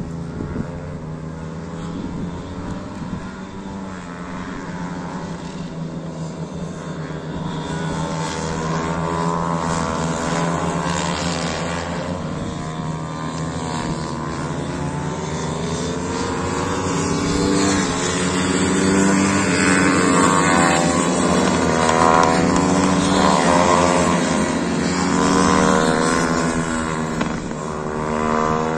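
Several small motorcycle engines running at once, their pitch rising and falling as they rev and change gear. The sound grows louder over the second half.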